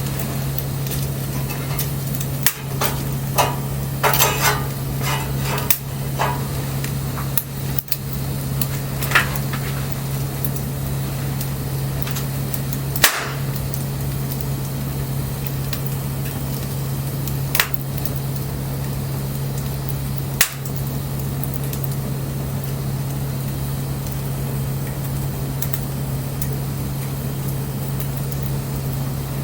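Wood fire crackling, with scattered sharp pops: a flurry of them a few seconds in, then single loud pops every few seconds. A steady low hum runs underneath.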